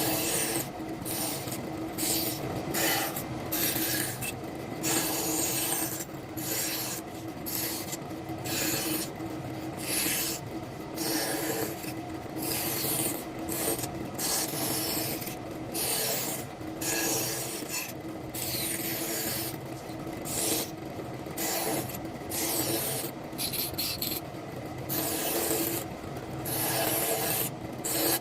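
Wood being rasped with a hand tool in repeated strokes, each a burst of scraping with a short gap before the next.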